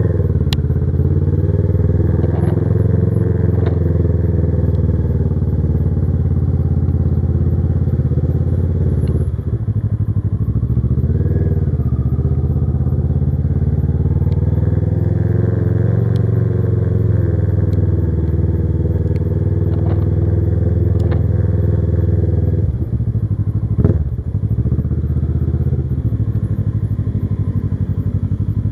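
Kawasaki Versys 650's parallel-twin engine running on the move, its pitch rising and falling with the throttle. The engine note dips briefly about nine seconds in and again near 23 seconds, and a short knock is heard soon after the second dip.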